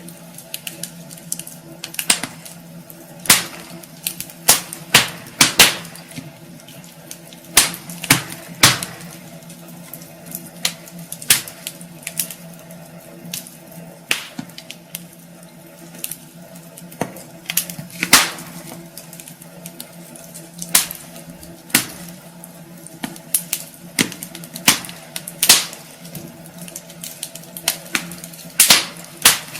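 Wood fire crackling in a fireplace: irregular sharp pops and snaps from the burning logs, some much louder than others, over a steady low hum.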